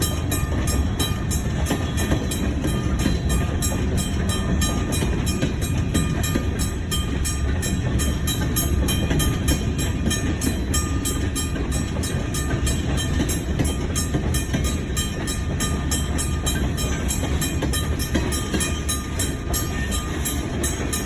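A train in a pushback move, its locomotive shoving railroad cars backward. A steady rumble of engine and rolling wheels runs without a break, with a faint high tone coming and going.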